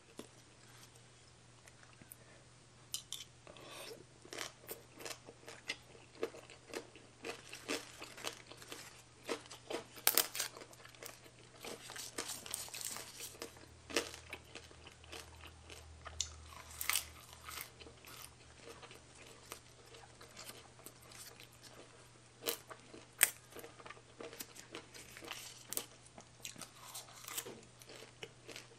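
Close-up chewing and crunching of a spicy baby cuttlefish salad with raw vegetables and leaf wraps: irregular crisp crunches between mouthfuls.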